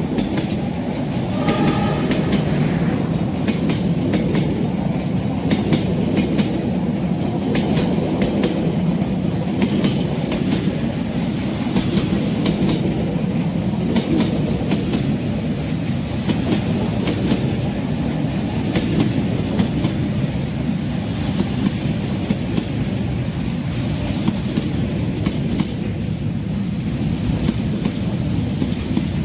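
Passenger train rolling past, its wheels clicking steadily over the rail joints with a continuous rumble of the coaches.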